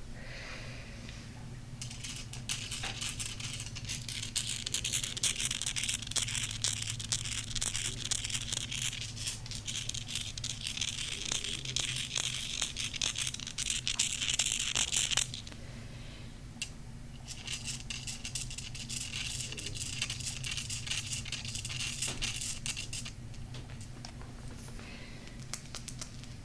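Fingernails scratching and rubbing on a golden crystal close to the microphone: a dense, crackly scratching with many small clicks, in two long stretches with a short pause between.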